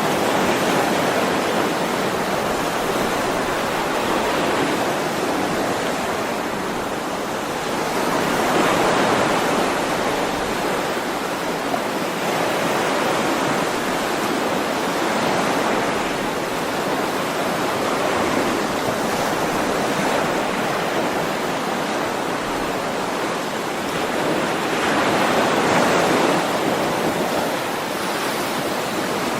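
Ocean waves washing ashore in a continuous surf rush that swells and eases every several seconds.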